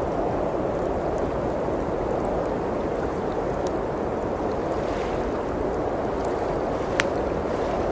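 Blizzard wind blowing steadily, with the faint crackle of a wood fire over it and one sharper pop from the fire near the end.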